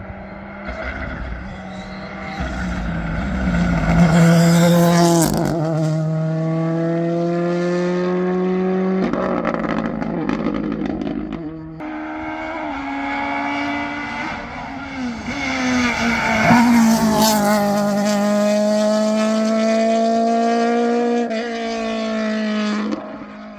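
Rally car engines running hard on a special stage, revs climbing and dropping sharply with gear changes, growing to two loud peaks, about four seconds in and again about seventeen seconds in.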